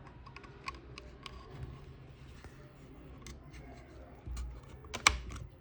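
Small scattered clicks and handling noises as the charging cable and the repaired speaker are handled, with one sharp, louder click about five seconds in.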